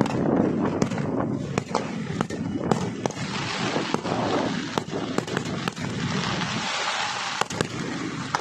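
Fireworks going off: an irregular run of sharp bangs and pops, several a second, over a continuous rumble and hiss.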